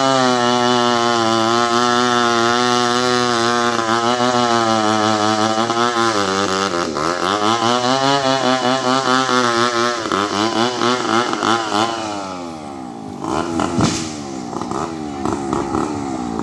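Two-stroke chainsaw cutting through a coconut palm trunk, its engine pitch wavering and sagging under load as the chain bites. About 12 seconds in it drops back to a lower, rougher running, with one sharp knock a couple of seconds later.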